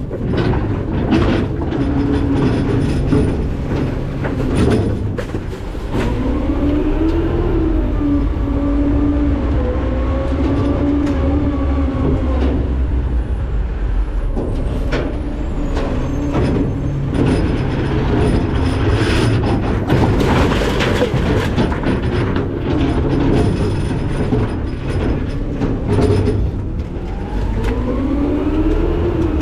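McNeilus ZR rear-load garbage truck working its packer: the engine revs up with a rising whine about six seconds in, holds steady for several seconds, then drops back, and revs up again near the end. Trash crunches and metal clanks throughout.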